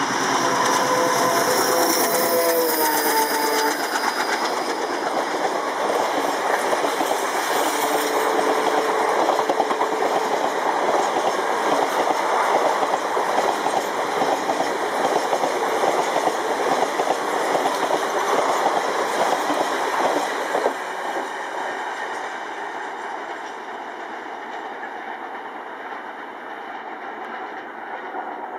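Indian Railways WDG-3A ALCO-engined diesel locomotive passing at about 100 km/h. Its multi-tone horn sounds and drops slightly in pitch as it goes by, with a shorter single horn note a few seconds later. The rushing clatter of the train's cars rolling past follows, falls off suddenly about twenty seconds in as the train clears, and then fades.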